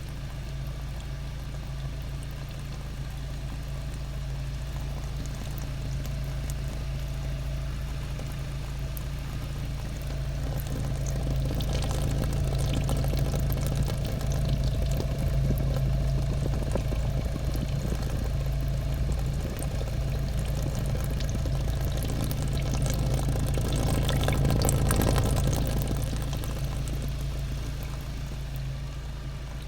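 Volkswagen Jetta 1.8 TSI's turbocharged four-cylinder petrol engine idling after a cold start, with an unusual noise from the exhaust over the steady idle. The noise swells from about ten seconds in, is loudest near the end, then fades.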